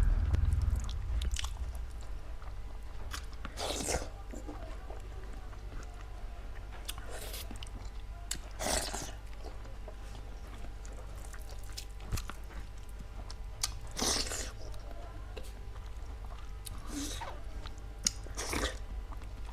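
A person chewing food close to the microphone, with a sharp crunch every few seconds.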